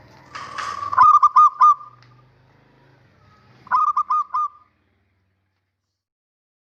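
Male zebra dove (perkutut) singing: two phrases of about four rapid, clipped cooing notes each, the second phrase coming about three seconds after the first.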